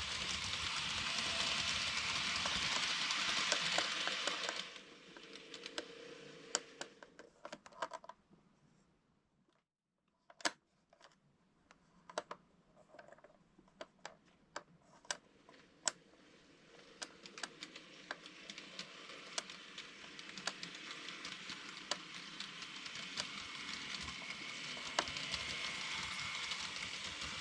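N-gauge model train running on the track: a steady motor whirr with the wheels clicking over the rail joints. It is loud for the first few seconds, fades away and cuts out about a third of the way in, then builds steadily louder again with many sharp clicks as the train comes back.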